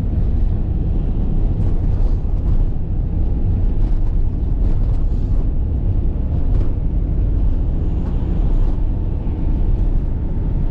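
Minivan driving along a road, heard from inside the cabin: a steady, low engine and road rumble. A faint steady whine joins about nine seconds in.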